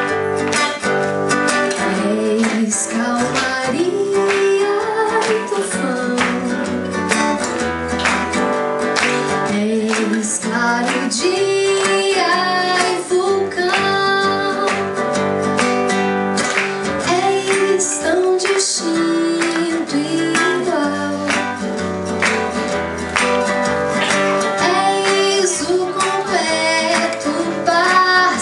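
A woman singing a slow song in Portuguese over a strummed acoustic guitar.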